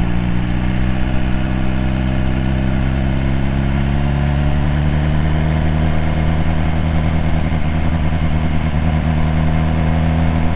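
BMW S1000R's inline-four engine, fitted with an aftermarket SC Project exhaust, running steadily at low revs in second gear with the exhaust flap closed.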